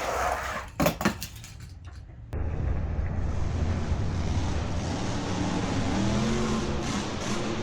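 Die-cast toy monster trucks released down a long toy race track: a quick clatter of clicks about a second in, then a steady rolling rumble of the small wheels running down the track.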